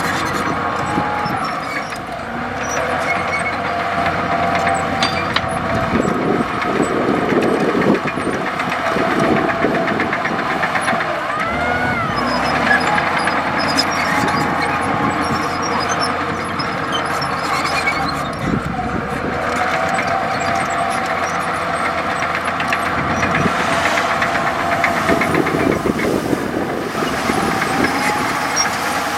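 Komatsu D65E bulldozer's diesel engine running steadily while working, with clattering stretches and a brief rising-then-falling whine about twelve seconds in.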